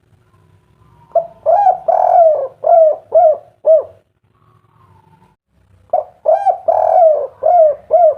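Spotted dove cooing its 'kuk 3' song: two loud phrases, each a run of about six arched coos, the second starting about six seconds in.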